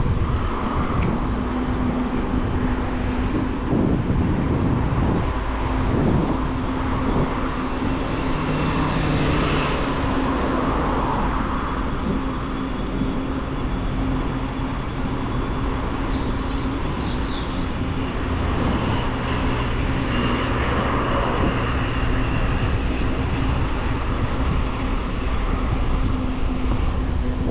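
Steady riding noise from a bicycle on the move, with a low rumble and a steady hum running throughout. A few short high chirps come a little before the middle.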